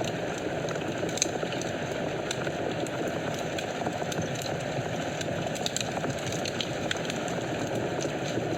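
Wood fire in a fireplace burning with a steady low rush of flames and irregular sharp crackles and pops, one louder pop about a second in.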